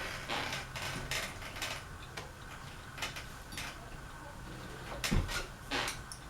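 Irregular light clicks and rattles from working a ceiling fan's pull-chain switches, over a low steady hum.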